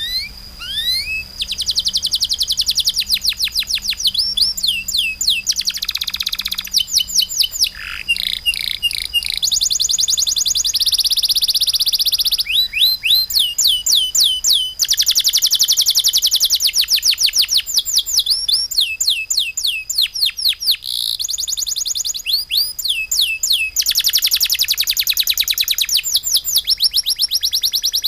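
A songbird singing in long, fast runs of high, downward-sweeping notes, repeated several times a second, with short breaks between the runs.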